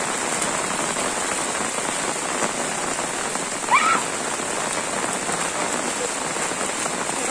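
Steady rain falling on trees and a puddled dirt road, with one short high-pitched shout from a child a little before halfway.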